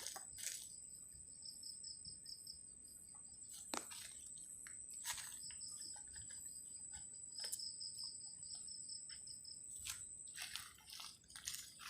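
Insects chirping: a steady high-pitched buzz with runs of rapid pulsed cricket trills, broken by a few scattered sharp clicks.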